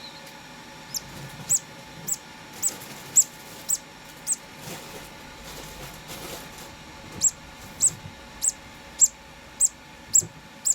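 Two-day-old conure chick peeping while being hand-fed: short, very high squeaks a little under two a second, in two runs with a pause of a few seconds between them.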